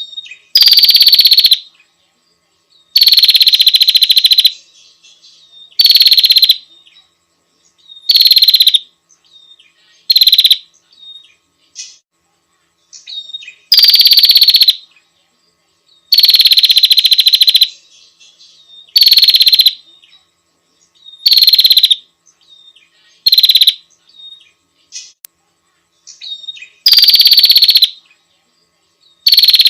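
Female prinia (prenjak) giving its call to draw a male: loud, rapid trills, each half a second to two seconds long, repeated about a dozen times at irregular gaps, with fainter short calls in between.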